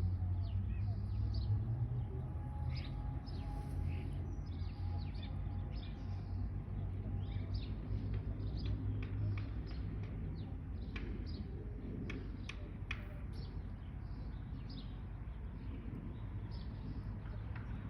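Songbirds chirping, with many short, sharp calls scattered throughout, over a steady low rumble.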